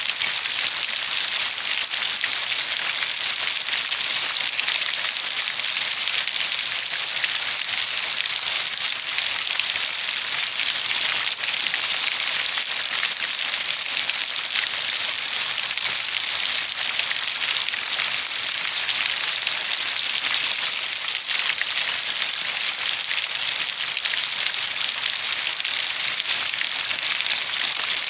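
Steady rain falling on a hard surface, a dense even hiss of many small drops with a fine crackle, without thunder or any change in strength.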